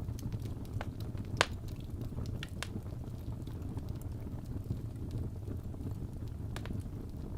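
Wood fire burning in a fireplace: a steady low rumble with scattered crackles and pops of the burning logs, the sharpest about a second and a half in, fewer after about three seconds.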